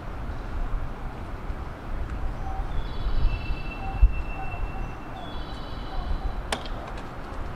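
Steady low rumble of a JR West 221 series electric train standing at the platform, with two short high electronic tones about two and a half seconds apart and a sharp click about six and a half seconds in.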